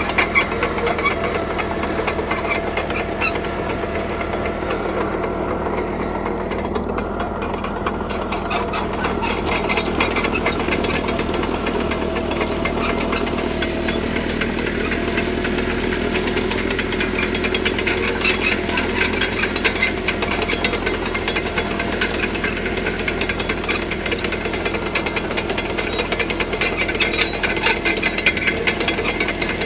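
CAT D3K crawler bulldozer working: its diesel engine runs steadily under load, with a dense, rapid clatter of the steel tracks.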